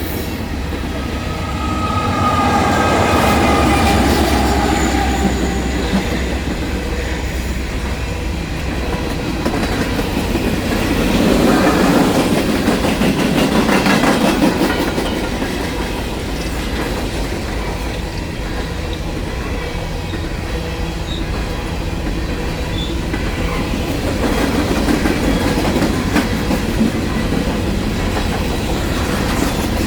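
Norfolk Southern freight train passing close by. Mid-train DPU helper diesel locomotives rumble past in the first few seconds with a falling whine. Then a string of empty coal gondolas and hoppers rolls by with wheels clicking over the rail joints.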